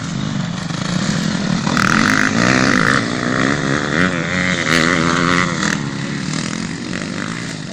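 Several motocross bikes racing past, their engines revving up and down through the gears, loudest from about two to six seconds in.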